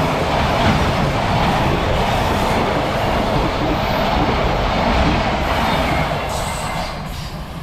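A freight train hauled by an EF210 electric locomotive passing close by at high speed, the wagons' steady rolling noise on the rails, which begins to fade about six seconds in as the train moves away.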